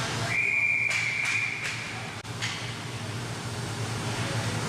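A single steady high whistle blast lasting a little under two seconds, like a hockey referee's whistle stopping play, with a few sharp clacks of sticks or puck around it. A steady low hum from the rink's machinery runs underneath.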